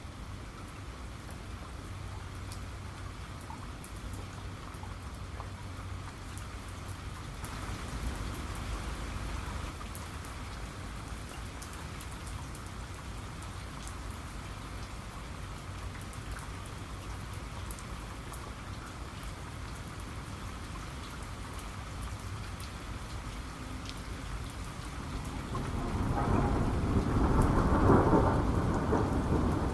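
Steady rain with scattered sharp drop hits, and a rumble of thunder building near the end that becomes the loudest sound.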